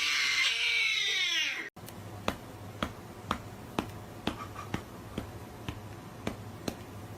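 A cat's long, drawn-out meow, falling in pitch, cuts off sharply after about a second and a half. Sharp clicks follow at about two a second over a low steady hum.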